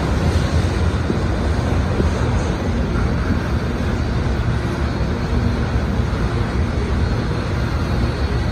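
Freight cars rolling past on the tracks below, a steady low rumble of steel wheels on rail.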